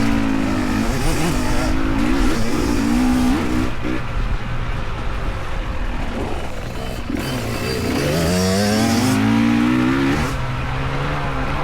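Dirt bike engine revving up and down as it is ridden along a trail, the pitch rising and falling with the throttle, with one long climb in revs about eight seconds in.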